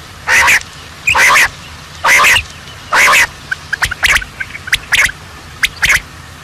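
Bird calling: four loud, harsh calls about a second apart, then a run of shorter, sharper calls.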